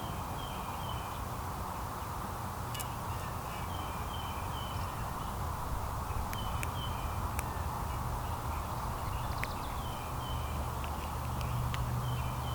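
Small songbirds chirping in short runs of quick, high notes every few seconds, over steady outdoor background noise and a low hum, with a few sharp ticks.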